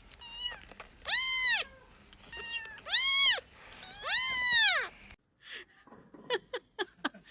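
A cat meowing over and over: about five meows in the first five seconds, each rising and then falling in pitch, three of them long and loud. The meowing cuts off suddenly, and a few short sharp ticks follow near the end.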